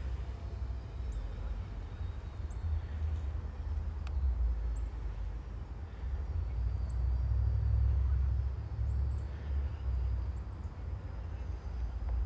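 Wind buffeting the microphone, a low rumble that surges and eases, with short high bird chirps every second or two.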